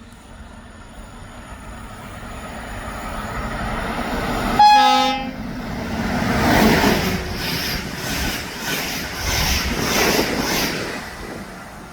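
Train approaching and passing a station stop at speed, sounding one short horn blast about halfway through, which is the loudest moment. As the cars go by, the wheels clatter over the rail joints in an even rhythm, then the sound fades away.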